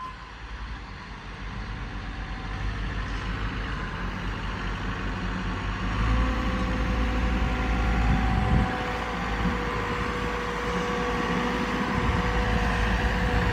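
Caterpillar 914 compact wheel loader's diesel engine running as the loader is driven over, growing louder over the first several seconds and then holding steady.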